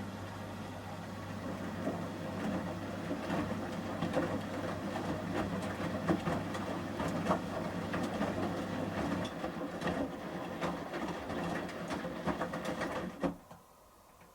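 Samsung washing machine drum turning during the heating phase of a 30°C shirts wash, with the wet load sloshing and many light clicks over a steady motor hum. The hum stops about nine seconds in, and the tumbling dies away about four seconds later as the drum comes to rest.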